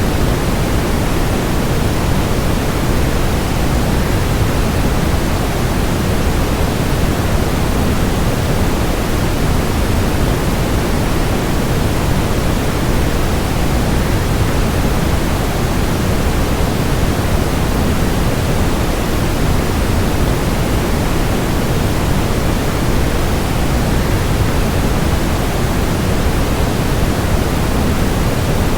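Waterfall rush blended with white noise: a steady, even hiss, fullest in the low end, with no change in level.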